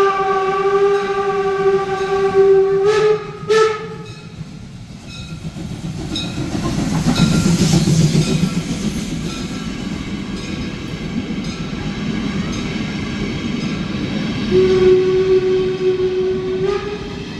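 Railcar horn sounding a long steady blast, then two short toots. Between them and a second long blast near the end, the railcar's running and rolling noise swells and fades.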